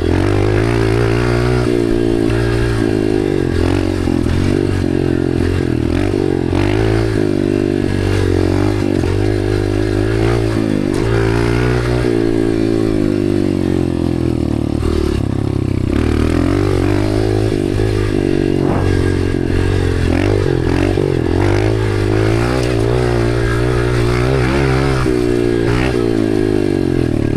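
Dirt bike engine revving up and falling back again and again as it is ridden around the track, with clatter and knocks from the bike over the rough ground.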